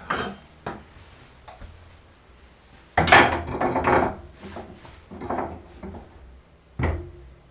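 Wooden knocks and bumps from using the new oak loft ladder and loft access door, with a longer, louder scraping rub about three seconds in.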